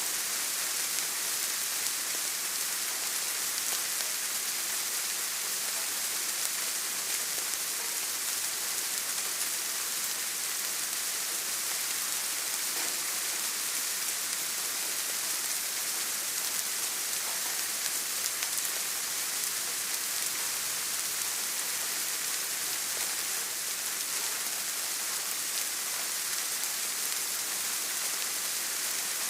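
Steady rain falling: an even, bright hiss that holds level throughout, with no breaks or single drops standing out.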